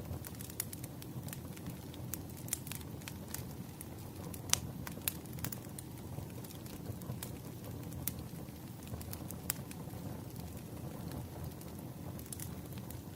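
Wood fire crackling: irregular sharp pops and snaps over a steady low rumble of flames, one pop about four and a half seconds in louder than the rest.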